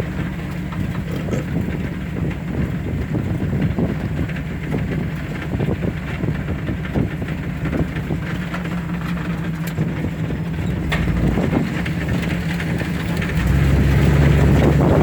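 Two-wheel-drive Chevy's engine running as it drives slowly over a rough, muddy dirt track, with scattered knocks and rattles from the vehicle over bumps. The engine gets louder about thirteen seconds in.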